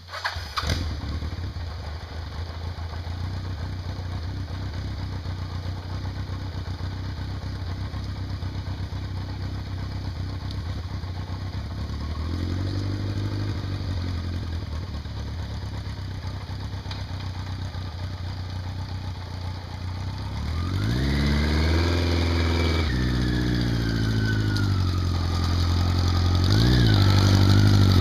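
Vehicle engine starting, then running steadily. It revs briefly about twelve seconds in, and from about twenty-one seconds in it runs harder and louder under a whine that rises and falls.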